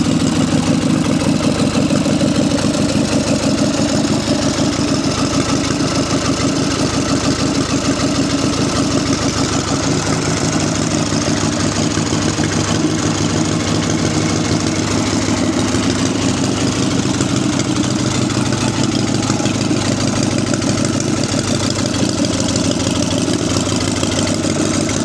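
1946 JAP 55 single-cylinder petrol stationary engine running steadily at a constant speed, its firing beats coming in an even rapid rhythm.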